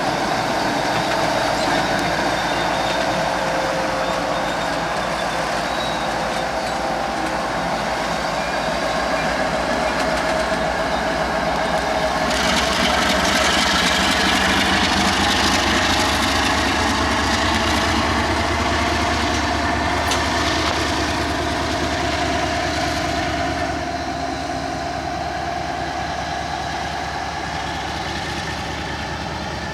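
Freight train rolling past on the Union Pacific line, a steady rumble of wheels on rail that grows louder about twelve seconds in and eases off near the end.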